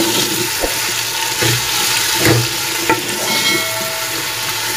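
Sliced bitter gourd (karela) sizzling in hot oil in a metal pot, with a wooden spoon stirring and knocking against the pot a few times.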